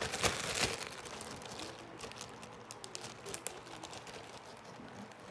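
Sticky fluffy slime being squished and pulled by hand, making irregular small clicks and crackles, loudest in the first second.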